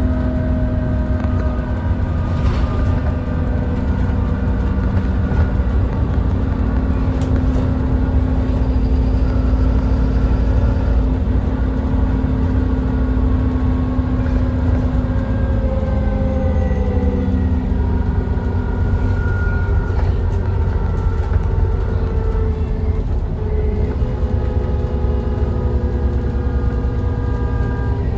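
Dennis Trident 2 Enviro400 double-decker bus with its replacement engine running under way: a continuous heavy low rumble with engine and transmission tones that fall and rise as the bus changes speed.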